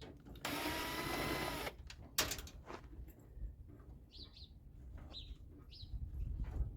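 Sheet-metal front panel of an RV convection microwave scraping for about a second as it is pulled off, then a sharp knock. A few short high chirps follow near the end.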